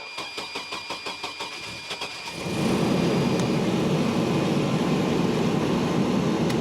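Car engine being jump-started: the starter cranks it at about six turns a second with a high starter whine, then the engine catches a little over two seconds in and runs steadily.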